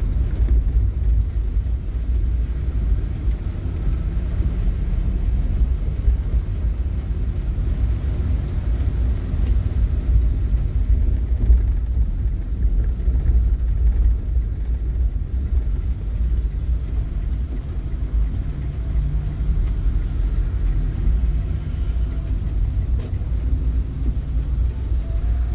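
Steady low rumble, with faint engine-like hum tones coming in near the end.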